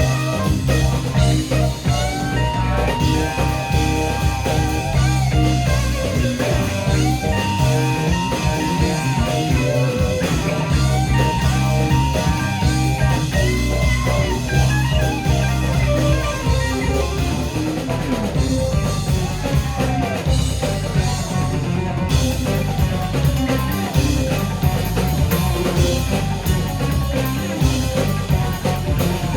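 Live rock band playing an instrumental stretch, electric guitar lines over bass and drum kit, psychedelic in feel; about 22 s in the high end thins briefly and the playing shifts.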